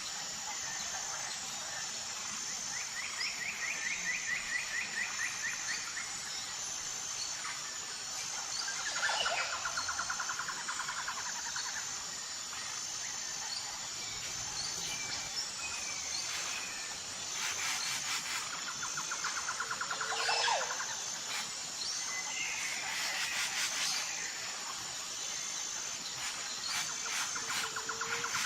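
Tropical forest ambience: several birds calling, with trills and a few whistles that fall in pitch, over a steady high-pitched insect drone.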